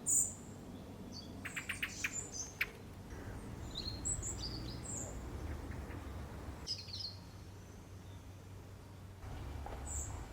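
Small birds giving short high chirps now and then, over a low steady rumble. A quick run of clicks comes about two seconds in.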